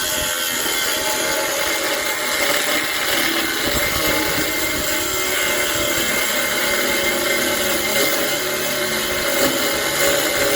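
Angle grinder running steadily against steel, a continuous whine over a grinding hiss.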